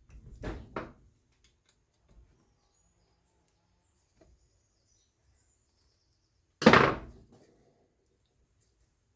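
Two quick knocks near the start, then one loud knock or clank about two-thirds of the way through that dies away within half a second.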